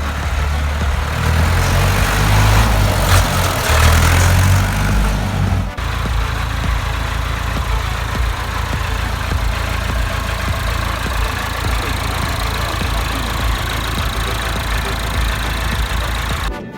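Landini Advantage 85 GE tractor's 85 hp Perkins diesel engine running, louder for the first several seconds. About six seconds in it changes abruptly to steady idling.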